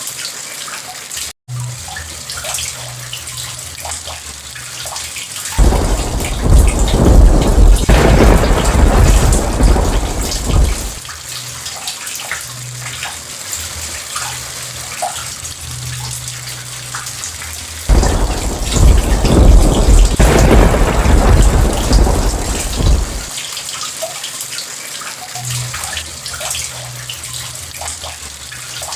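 Heavy rain falling steadily, with two long rolls of thunder, the first about six seconds in and the second about eighteen seconds in, each swelling and fading over about five seconds.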